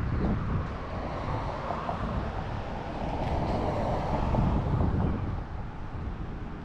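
Wind rumbling on the microphone over the steady noise of a running engine, swelling between about two and five seconds in.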